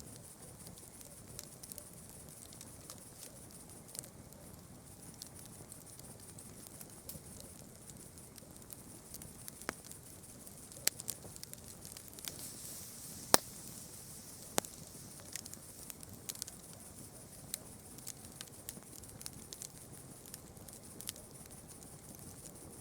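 Campfire crackling, with irregular small snaps of burning wood and a few louder pops around the middle, over a steady faint high-pitched hiss.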